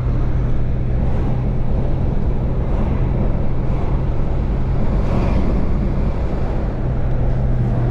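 Moving vehicle on the road: a steady engine and road hum with wind noise on the microphone.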